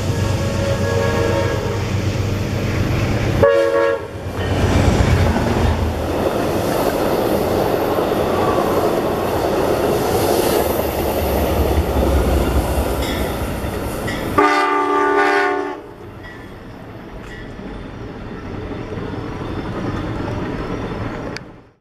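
Amtrak passenger train passing close at speed: a steady rumble and rush of wheels and cars on the rails. A short train horn blast comes about three and a half seconds in, and a longer one of about a second near the middle, after which the sound falls to a quieter rumble.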